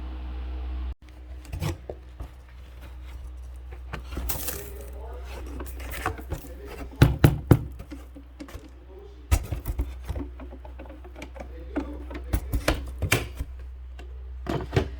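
Vacuum cleaner motor running steadily, cut off abruptly about a second in. It is followed by scattered clicks, knocks and rustling as the vacuum and its parts are handled.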